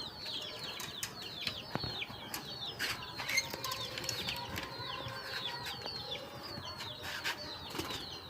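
Cockatiels chirping: a steady run of short, high, falling chirps, several a second, with scattered sharp clicks.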